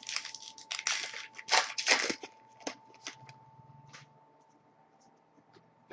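Hockey trading cards and a card pack being handled: a quick run of short rustling, sliding strokes over the first couple of seconds, then a few light ticks and quiet.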